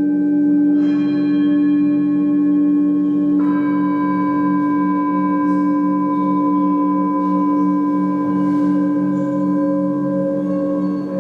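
Sustained ringing from resonant metal percussion, several long overlapping tones, with a fresh strike about a second in and another about three and a half seconds in; the lowest tones pulse in a slow steady wobble.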